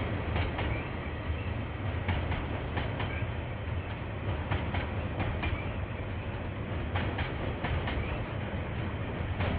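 KiwiRail train wagons rolling past: a steady low rumble with wheels clicking over rail joints, the clicks often in quick pairs, heard through a security camera's microphone.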